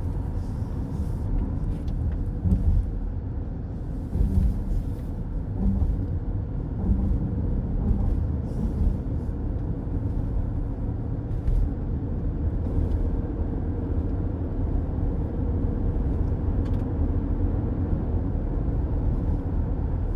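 Steady low rumble of a car's tyres and engine on the road, heard from inside the cabin, with a faint steady hum and a few brief light knocks from the road surface.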